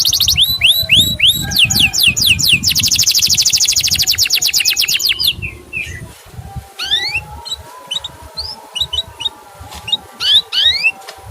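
Male canary singing: fast trills of repeated downward-sweeping notes for about five seconds, then quieter, scattered short rising 'cuit' chirps.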